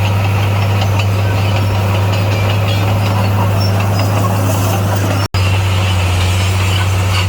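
Diesel engine of heavy earth-moving equipment running steadily at a constant speed, with a deep even drone. About five seconds in, the sound cuts out for an instant and then resumes unchanged.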